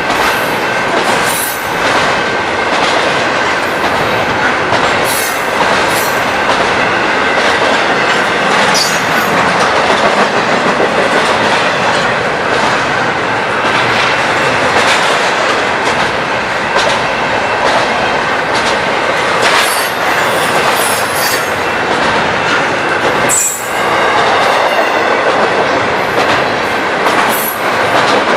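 A train rolling past at close range, its wheels clicking over the rail joints and crossing, with a steady high-pitched wheel squeal over the running noise.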